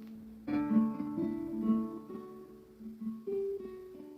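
Acoustic guitar picking single notes in a slow instrumental closing phrase, each note ringing on and gradually getting quieter.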